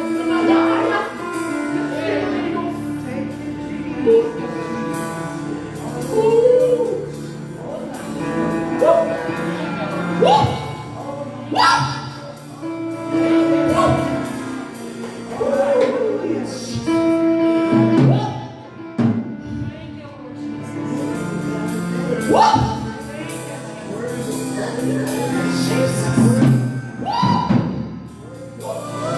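Live gospel worship music: a singer's voice over sustained instrumental chords, with a few sharp hits.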